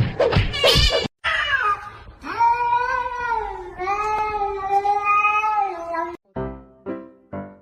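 A cat yowling in two long, drawn-out meows, its pitch wavering. A second of rhythmic music comes before it, and piano music starts near the end.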